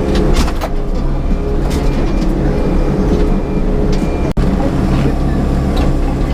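Yanmar crawler excavator's diesel engine running steadily as heard in the cab, with scattered short clicks and knocks from the machine at work.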